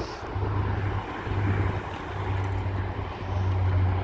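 Jetstar jet airliner's engines, heard as a steady rush of noise under an uneven low rumble that swells and fades several times.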